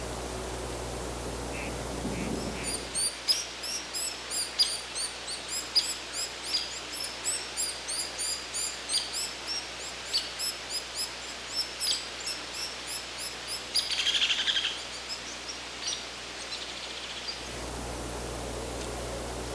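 Hairy woodpecker giving a long series of short, sharp, high-pitched call notes, about two or three a second, with a brief rougher, lower burst about fourteen seconds in. A steady hiss fills the start and the end.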